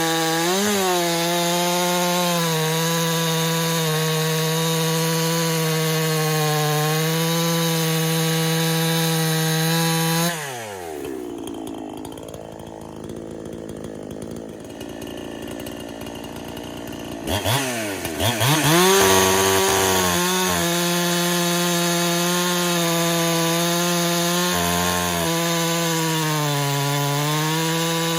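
Two-stroke Husqvarna clone chainsaw with a fresh big-bore kit running at full throttle through wood, its note sagging slightly as it loads in the cut. About ten seconds in it drops sharply to a quiet idle, then revs back up a few seconds later and carries on cutting. The owner notices the tune drifting leaner over this break-in run and suspects an air leak.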